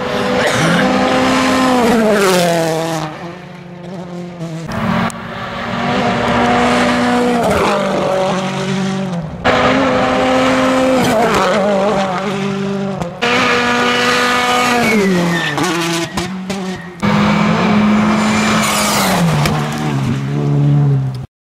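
World Rally Cars' turbocharged four-cylinder engines revving hard in a series of short passes, the engine note dropping in steps as they downshift under braking and climbing again under acceleration. The sound ends abruptly near the end.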